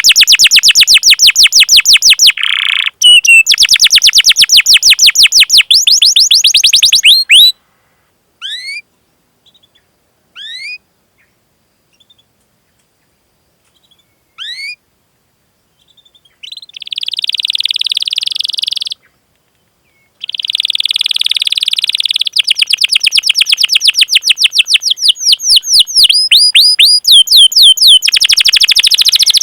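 Domestic canary singing: long, fast rolls of rapidly repeated rising chirps. In the middle the song breaks off, leaving a few single upward-sweeping 'cuit' call notes, then buzzy trills and fast rolls start up again.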